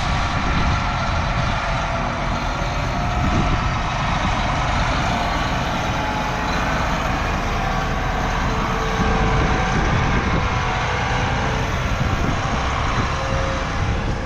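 Grain truck running while it is driven, a steady engine drone with road noise.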